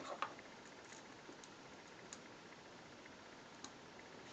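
Faint clicks of tiny Nanoblock plastic bricks being handled and pressed into place: a quick cluster at the start, then a few single clicks spaced about a second apart, over a steady low hiss.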